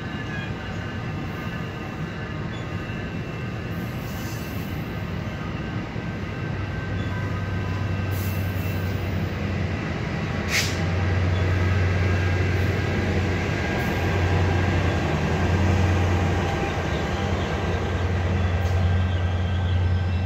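Diesel-hauled commuter train passing: steady rolling of wheels on the rails with faint high wheel squeal at first. The locomotive's low engine drone grows louder in the second half. A single sharp click comes about halfway through.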